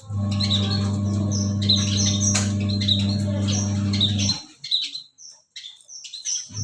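A pied bushchat (decu) chirping in quick, short high notes, many of them dropping in pitch. A steady low electric hum runs underneath and cuts off suddenly about four seconds in, leaving the chirps alone.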